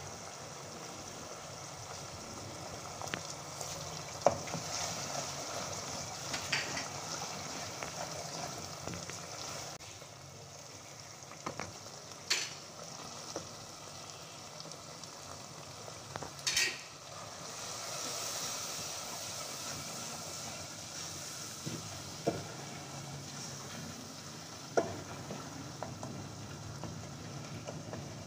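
Minced meat and onions sizzling steadily as they fry in oil in a non-stick pot, stirred with a plastic spoon, with a few sharp knocks of the spoon against the pot.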